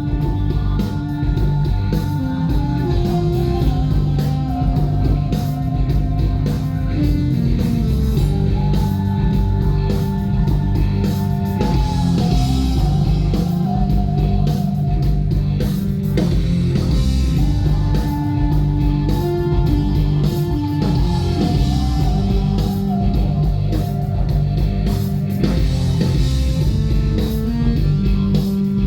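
Live rock band playing, with electric guitar, bass and drums, and a melodic phrase repeating about every eight seconds.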